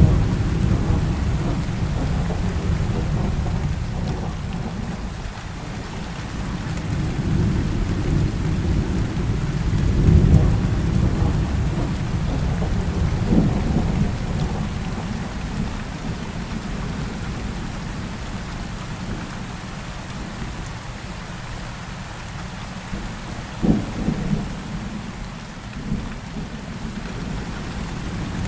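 Heavy rain with rolling thunder: a steady downpour under deep rumbles that swell and fade, the strongest near the start and about ten seconds in. A few short sharp cracks come around the middle and near the end.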